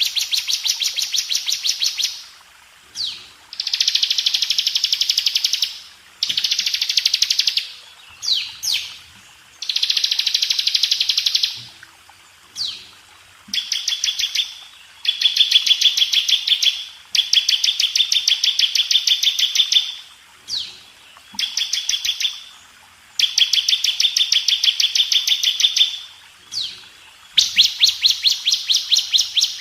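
Bar-winged prinia (ciblek) singing its rapid buzzing trill, in repeated bursts a couple of seconds long. The bursts are high-pitched and separated by short pauses and brief sweeping notes.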